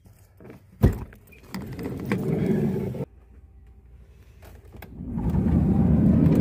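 A sharp click, then an electric motor on a camper van running in two goes, a short one that cuts off abruptly and a longer one that grows louder, after the wrong button was pressed.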